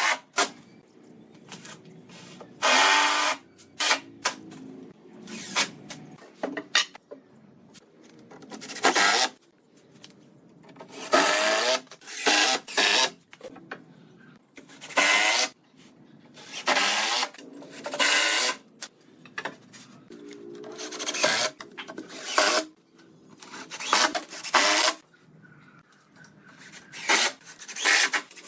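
Repeated rasping strokes of a tool working wood, each about half a second to a second long, coming roughly every one and a half seconds with short pauses between.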